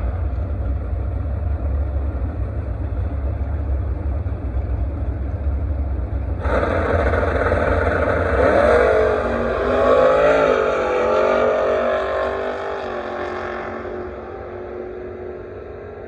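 Drag race car launching and running down the strip. About six and a half seconds in, a loud engine sound starts, its pitch rising and wavering, then fading away over the last few seconds, over a steady low rumble.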